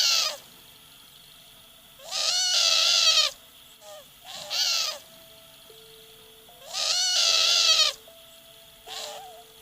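A bird calling: loud, wavering calls about a second long, twice, with short calls between them.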